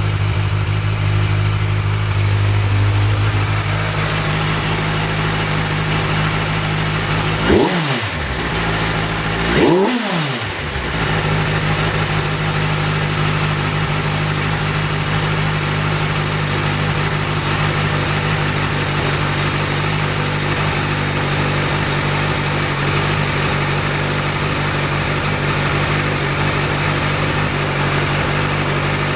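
Kawasaki Ninja 1000's inline-four engine idling steadily through its exhaust, with two quick throttle blips about seven and ten seconds in, the revs rising and dropping back each time.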